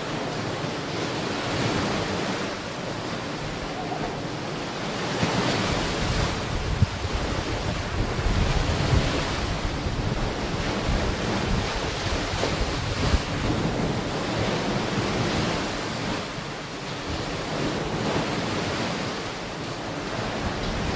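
Sea waves washing onto a beach, swelling and falling away in a steady rush, with wind buffeting the microphone as a low rumble through the middle stretch.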